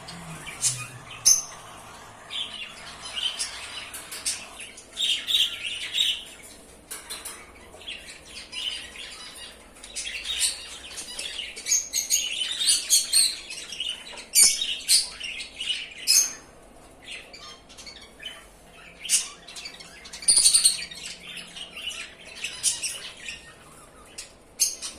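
A pair of cockatiels chirping and squawking in short, repeated calls, with sharp clicks scattered among them.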